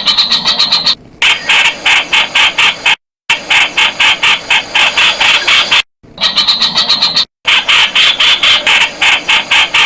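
Streak-eared bulbul calling: a rapid chattering series of sharp notes, about six a second, broken by abrupt brief silent gaps where the recording is spliced.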